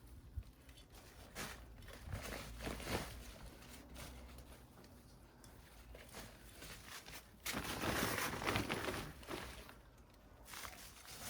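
Rustling and scraping of potting soil and a bag being handled, with footsteps on the ground. There is a louder stretch of about two seconds a little past the middle.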